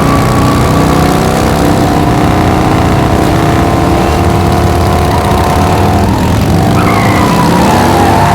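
Several car engines revving together, their pitches climbing slowly; about seven seconds in one engine's pitch drops and climbs again.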